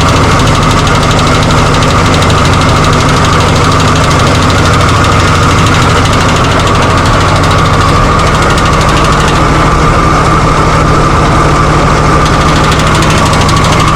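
Chrysler 245 Hemi straight-six running steadily on a Holley 350 carburettor, with a steady high whine over the engine note.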